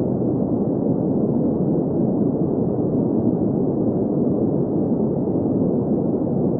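Steady synthetic green noise: an even hiss centred in the mid-low range, with little above about 2 kHz, unchanging throughout.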